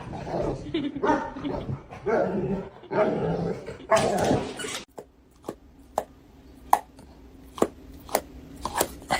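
A dog barking and vocalising for about five seconds, then a run of short sharp clicks or taps with a brief yelp or two.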